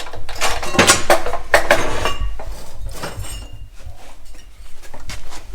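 Metal parts clanking and clinking, a quick run of irregular knocks as pieces of steel are handled and set down.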